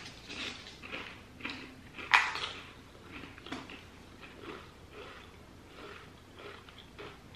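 A person crunching and chewing a Pringles potato crisp: one sharp crunch about two seconds in, then quieter irregular crunches as it is chewed.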